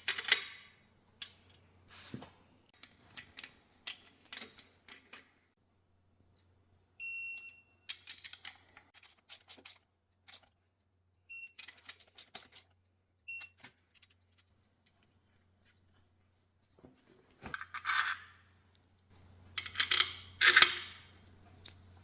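Hand tools and small metal engine parts clicking and clinking during assembly of a Porsche 912 flat-four engine, with a few short high electronic beeps about seven seconds in and again around eleven to thirteen seconds in. Louder rustling and scraping handling noise comes near the end.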